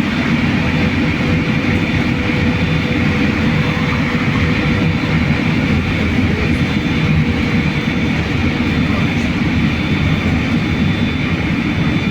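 BKM-43300D trolleybus under way, heard from inside the cabin: a steady loud low rumble of running gear and road, with faint thin steady whining tones above it.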